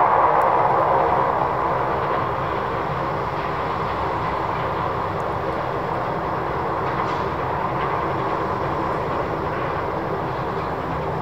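Jet airliner engines running: a steady rush of engine noise laced with many fine steady tones. It eases over the first couple of seconds and then holds level.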